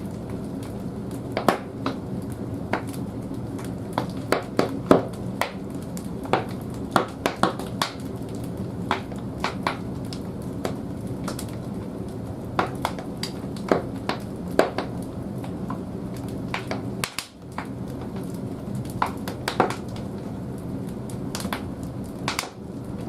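Large firewood logs burning in the firebox of an old wood-fired boiler: a steady low rumble with irregular sharp crackles and pops.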